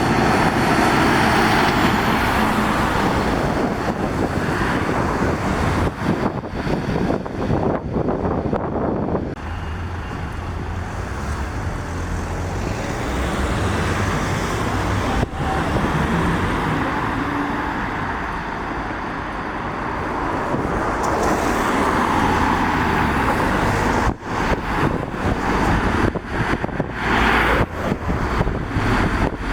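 Lorries and other road traffic passing on a wet road: low engine rumble and tyre hiss on wet tarmac, swelling and fading as vehicles go by.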